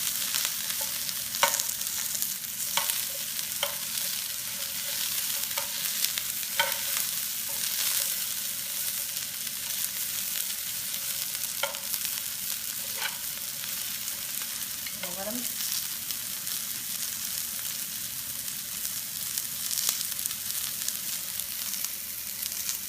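Onions frying in hot vegetable oil in a pan on medium-high heat, a steady sizzle, with scattered sharp clicks and pops.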